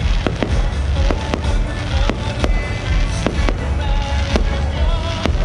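Aerial fireworks shells bursting overhead: an irregular string of sharp cracks, about two a second.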